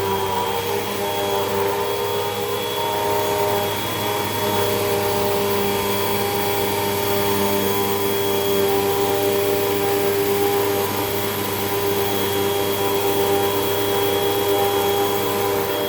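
Hoover WindTunnel 2 Rewind upright vacuum cleaner running steadily, its motor giving an even whine of several held tones over a rush of airflow.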